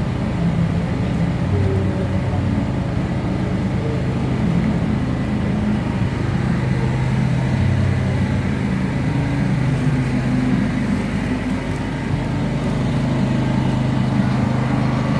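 An engine running steadily with an even low hum, like a vehicle idling close by.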